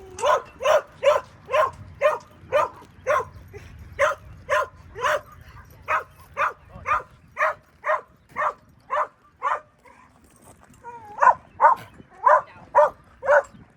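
A dog barking over and over, about two barks a second. It stops for a second or so past the middle, then starts again a little faster.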